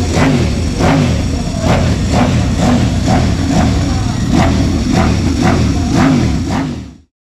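Sport-bike engine revved in repeated short throttle blips, each a quick rise and fall in pitch, about two a second. The sound fades out near the end.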